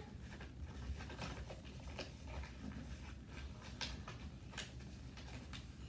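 A sheet of paper being folded and creased by hand into the second wing of a paper airplane: faint, scattered crinkles and sharp clicks, the loudest a little before and after four seconds in.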